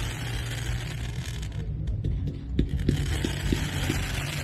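Fireworks going off: a run of dull thuds, several in quick succession around the middle, over a steady low rumble.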